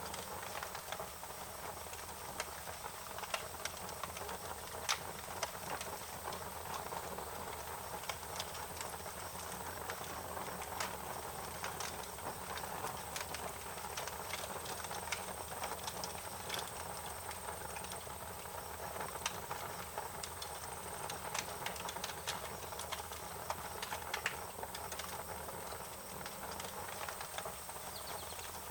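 Wood fire crackling, with irregular sharp pops and snaps over a steady hiss, and a thin steady high tone throughout.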